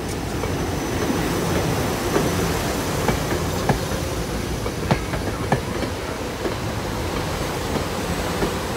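SEPTA Silverliner IV electric railcars passing close by at a steady speed: a continuous rumble of steel wheels on rail, broken by several sharp clacks at uneven intervals as the wheels cross rail joints.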